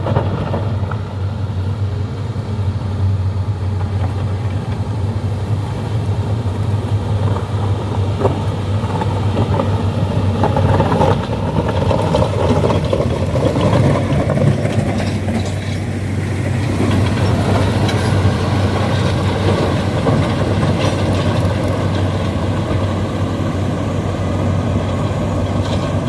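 Heavy mine machinery's diesel engine running steadily, a loud low drone with busier working noise for a few seconds in the middle.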